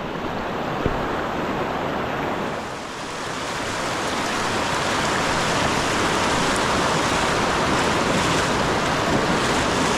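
River current rushing, a steady hiss of flowing water that dips slightly about three seconds in and then swells a little.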